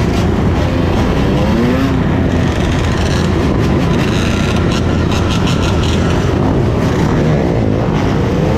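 A large pack of dirt bikes and ATVs riding together, many engines revving over one another with their pitch rising and falling.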